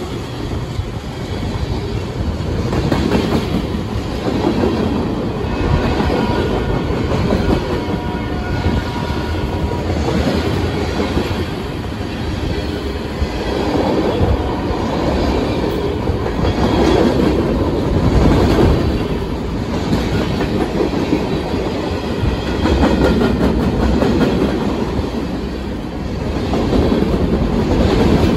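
Norfolk Southern manifest freight train's tank cars and covered hoppers rolling past close by: a continuous wheel-on-rail rumble and clatter that swells and eases every few seconds as the cars go by.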